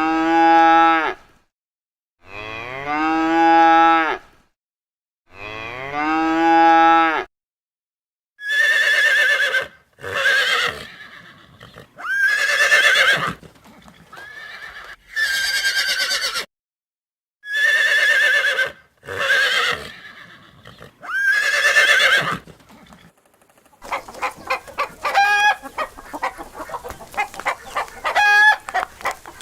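A cow mooing three times, the same long call repeated about every three seconds. Then a run of higher, wavering calls from another farm animal, and, about two-thirds of the way through, rapid clucking from chickens takes over.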